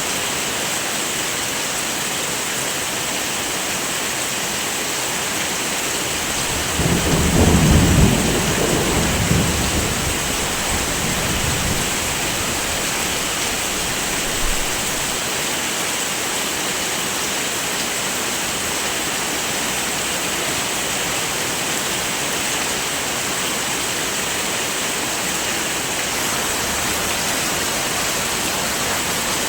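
Heavy, steady rain, with a low roll of thunder that swells about seven seconds in and fades away over the next few seconds.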